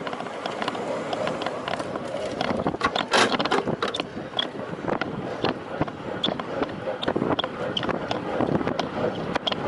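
Wind rushing over the microphone with tyre and road noise from a road bicycle ridden at speed, broken by frequent small clicks and rattles and a brief louder rush about three seconds in.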